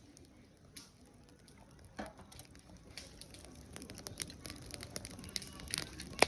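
Wood fire crackling: scattered sharp snaps at first, growing into denser crackling about halfway through, with a loud pop at the end.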